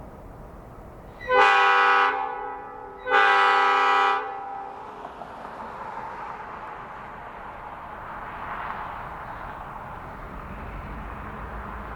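Diesel locomotive air horn sounding two blasts about a second apart, each a chord of several steady notes. A low steady rumble runs underneath.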